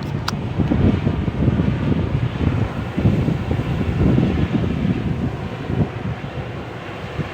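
Rice combine harvester with a large Hino diesel engine running under load while harvesting, a loud steady rumble that pulses unevenly.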